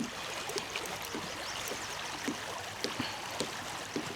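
River water running steadily past the kayak, with a scattering of small clicks.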